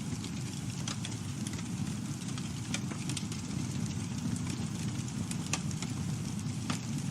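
Campfire burning: a steady low rumble of the flames with scattered sharp crackles and pops, about one every second or so.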